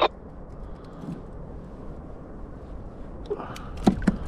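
Steady low background rumble of open-air noise, with scattered light clicks and a few sharper knocks near the end.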